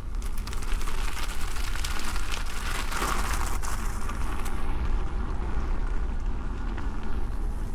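Nosfet Apex electric unicycle's tyre rolling over a dirt trail, crackling and crunching over small debris in a steady stream of clicks, with wind rumbling on the camera microphone.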